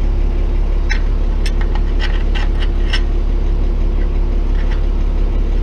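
Tow truck engine idling steadily, with light metallic clinks of bolts and pins being handled and fitted, most of them in the first half.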